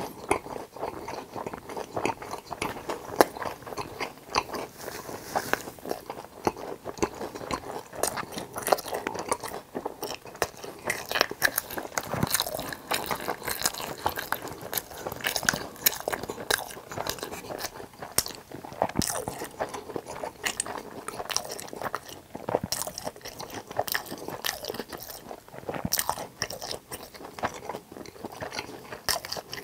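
Someone biting and chewing crisp fried sweet-and-sour pork (tangsuyuk) topped with pizza cheese: a steady, irregular run of crunches, several a second.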